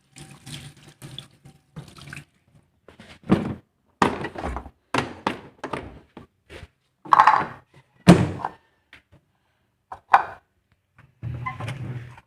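Irregular thunks and knocks with some water splashing as a fish is cleaned and its head and tail are chopped off.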